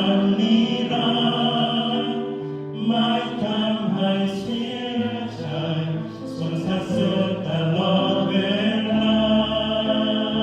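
Voices singing a slow Thai worship song, with long held notes.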